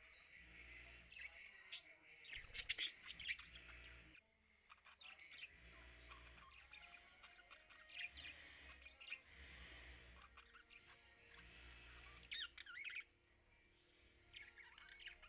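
Small birds chirping and twittering in quick, faint calls, with a louder run of chirps about two to three seconds in and another near the end.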